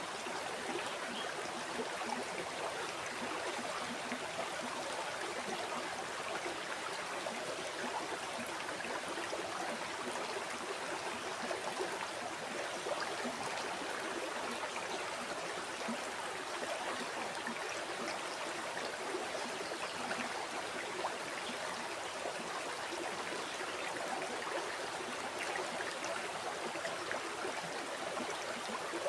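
River water flowing steadily over stones, a continuous rushing and babbling with fine splashes and no change in level.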